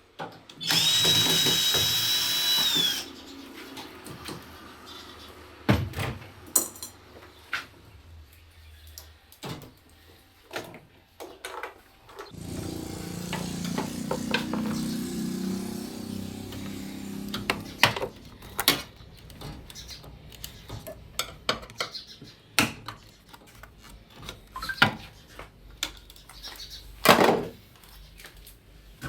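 An electric drill-driver runs in a burst of about two seconds near the start, with a steady whine, while screws are removed from the washing machine's panels. Scattered clicks and knocks of metal parts being handled follow, with a lower rough sound for several seconds in the middle.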